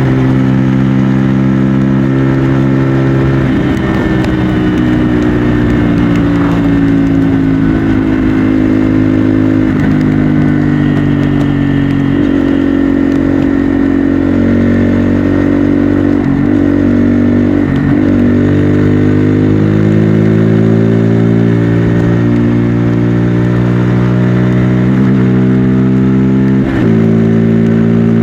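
Bajaj Pulsar N250's single-cylinder engine and exhaust under way on the road, the engine note climbing and falling slowly with throttle. The note breaks off briefly several times as gears change.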